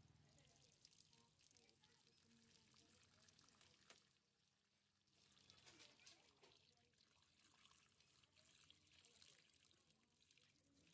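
Faint water pouring and trickling, as water is poured over frost build-up inside a freezer to melt it away. It pauses briefly about four seconds in, then resumes.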